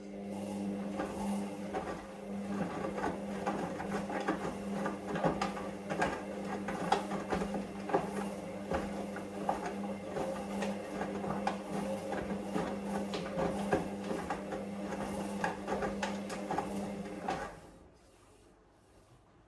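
Hoover Vision Dynamic washing machine's motor turning the drum in a wash cycle: a steady hum with irregular clicks and knocks, which stops suddenly near the end.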